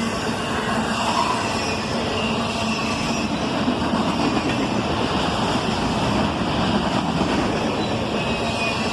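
Freight train's autorack cars rolling past on the rails: a steady rumble and rattle of steel wheels, with a thin high-pitched wheel squeal running above it.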